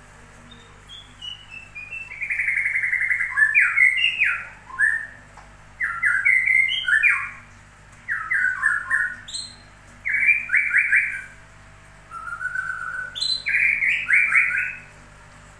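A songbird singing: a quick run of falling notes, then a string of rapid trilled phrases with short pauses between them.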